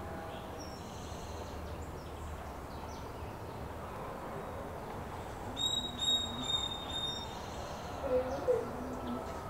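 A bird chirps a quick run of short, high notes a little past halfway, over a steady background hiss. A lower, wavering call follows near the end.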